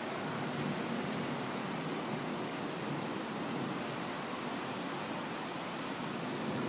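Storm rain falling steadily: an even hiss with no breaks and no thunderclap.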